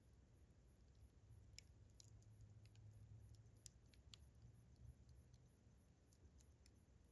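Campfire crackling softly, with scattered sharp pops and snaps. Crickets chirp in a high, steady rhythm behind it.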